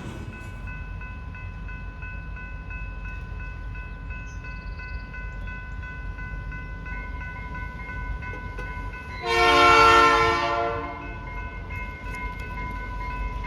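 Freight train locomotive horn sounding one long blast about two-thirds of the way in, the loudest sound, over a low rumble of the train and a steady high ringing tone.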